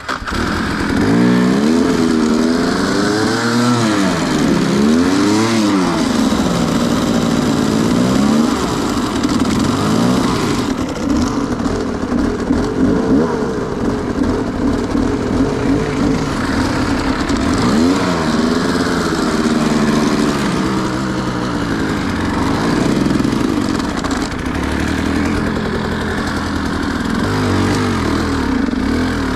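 Enduro dirt bike engine revving hard, its pitch climbing and dropping again and again while the bike struggles to climb a hill.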